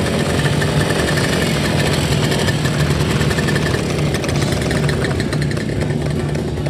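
Motorcycle engine running steadily at idle, with a fast, even exhaust beat.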